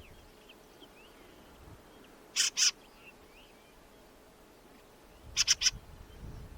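A bird giving short, harsh, raspy calls: two about two and a half seconds in, then three in quick succession near the end. Faint chirps of small birds run underneath.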